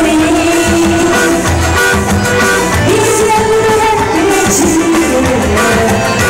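A forró band playing a song, with a singer's voice over the instruments.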